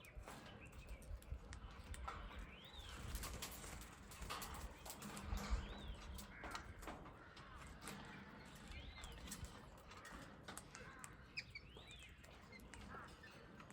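A small bird chirping, one short rising-and-falling chirp about every three seconds, with faint clicks and taps in between.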